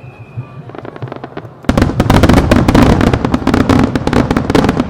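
Starmine fireworks: a few scattered pops, then about a second and a half in a sudden, dense barrage of rapid-fire bursts and crackling that keeps going.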